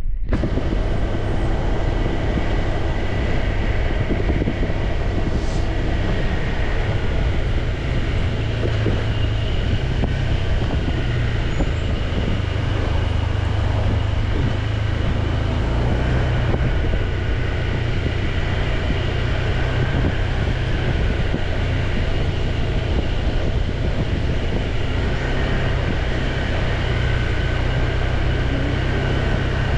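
Steady low rumble of a moving motorbike: its engine running and wind buffeting the microphone as it rides.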